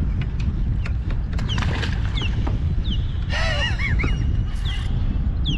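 Birds calling: several short falling chirps, then a louder honk-like call about three and a half seconds in, over a steady low rumble.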